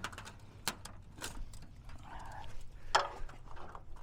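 A few light clicks and taps, the loudest near the end, over a faint low hum.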